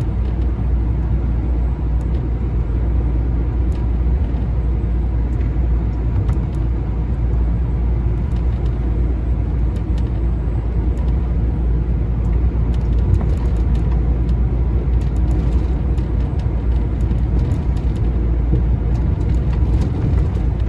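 Heavy goods lorry driving, heard from inside the cab: a steady low engine and road rumble.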